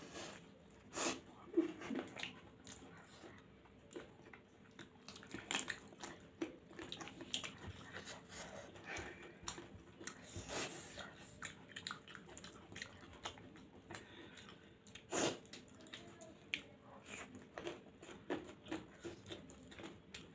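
Close-up chewing and lip smacking of two people eating soft homemade noodles with their fingers: a run of wet, irregular mouth clicks with a few louder smacks now and then.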